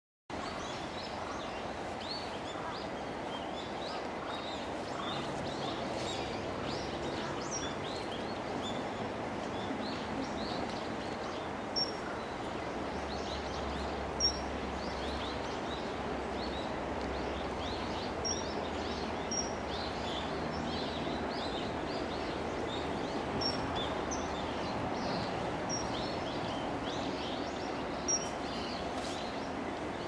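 Outdoor ambience: a steady background rush, over which small birds chirp and twitter faintly throughout. About six short, sharp high calls stand out above the chirping, scattered through the second half.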